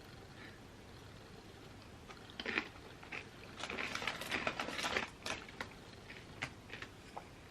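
Crunchy chips being bitten and chewed: a crackling bite about two and a half seconds in, then a dense run of crunching for about three seconds that thins to a few scattered crunches.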